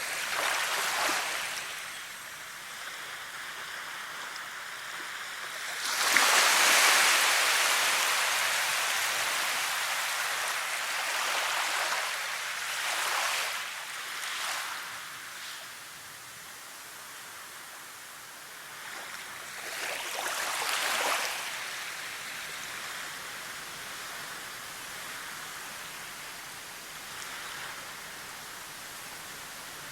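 Rushing water, a steady wash that swells and fades several times, loudest about six seconds in.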